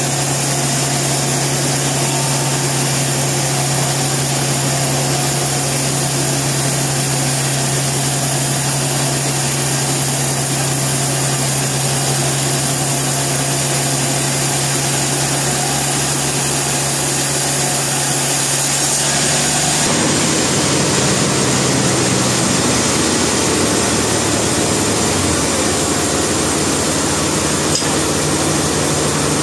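Sawmill machinery running steadily, engine and saw, with a held low hum; the sound changes abruptly about two-thirds of the way through.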